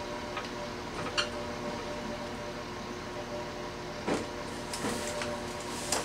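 Steady hum of a moving diesel train heard from the driver's cab, with a few short clicks and knocks over it.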